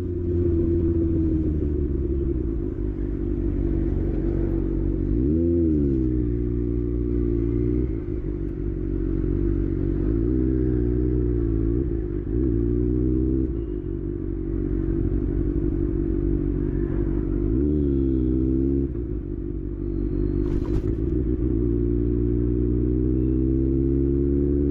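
Kawasaki ZX6R's inline-four engine running, its pitch rising and falling with short throttle blips about five seconds in, around ten to thirteen seconds, near eighteen seconds, and climbing again near the end.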